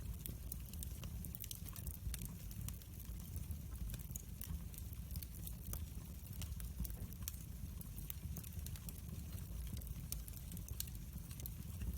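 Wood fire burning in a fireplace: a steady low rumble with frequent sharp irregular crackles and pops.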